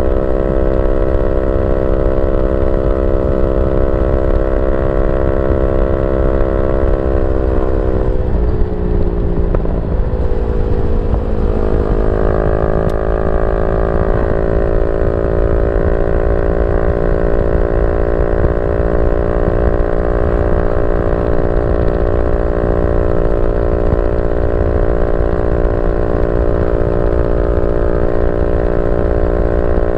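Yamaha Y15ZR's 150 cc single-cylinder four-stroke engine running steadily through a YYPANG SD3 aftermarket exhaust. The pitch drops about eight seconds in, climbs back by about twelve seconds and then holds steady.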